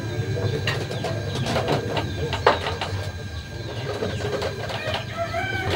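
Birds calling, among them the low notes of a dove cooing, over a steady low hum, with scattered light clicks and rustles.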